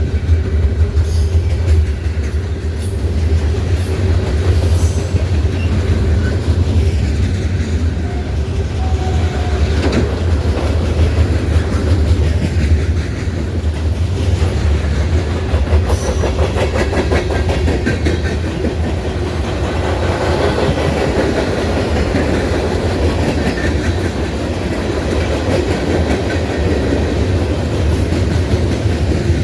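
Norfolk Southern train rolling past: a steady low rumble with the rhythmic clickety-clack of railcar wheels over the rail joints.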